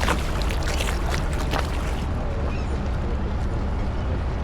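Small tour boat under way, its engine and the water giving a steady low rumble, with a few short sharp splashes during the first two seconds.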